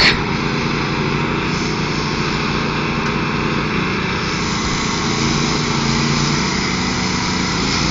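Engines of two riding lawn mowers, a Craftsman and a Troy-Bilt, running steadily.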